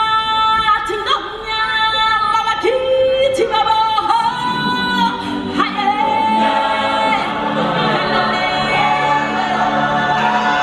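Stage-show music: a choir singing long held notes, with a lower accompaniment joining in about halfway through.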